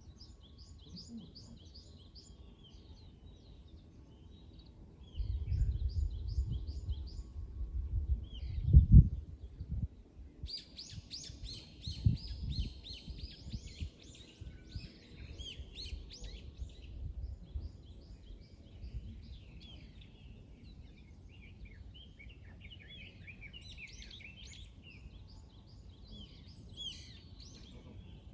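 Small songbirds chirping and twittering, with a dense flurry of song from about ten seconds in that eases off near seventeen seconds. A low rumble starts about five seconds in and peaks sharply near nine seconds, louder than the birds, with a shorter one around twelve seconds.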